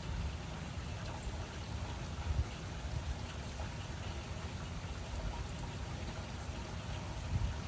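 Steady rain falling, an even hiss of drops over a low rumble that swells slightly about two and a half seconds in and again near the end.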